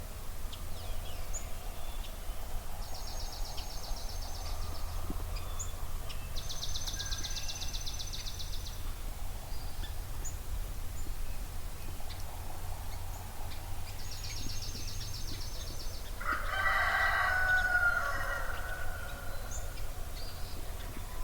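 A rooster crows once, about three-quarters of the way through, the loudest sound, its crow falling away at the end. Between its crows, a small songbird sings a fast, even, high trill three times, with scattered chirps from other birds and a low steady hum underneath.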